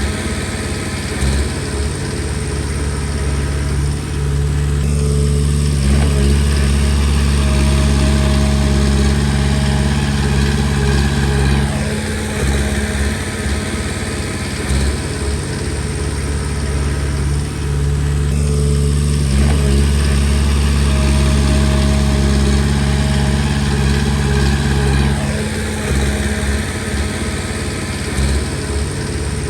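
Komatsu D20P bulldozer's diesel engine running, its low drone swelling and holding twice, from about five seconds in and again from about eighteen seconds, and easing between. The swells fit the engine taking load as the blade pushes stone, then easing off as the machine backs up.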